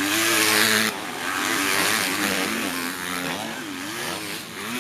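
Several motocross bike engines revving up and down as they ride past, their pitches overlapping. The loudest burst comes in the first second.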